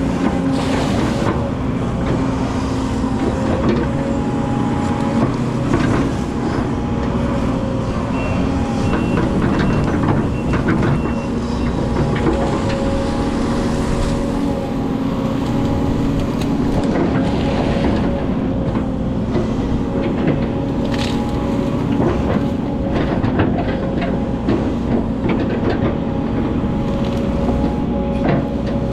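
Excavator's diesel engine running at steady revs while it works, with scattered knocks and clanks throughout.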